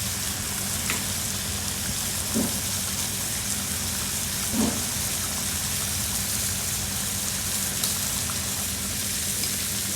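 Food sizzling and frying in a hot pan: a steady hiss, over a steady low hum from kitchen equipment.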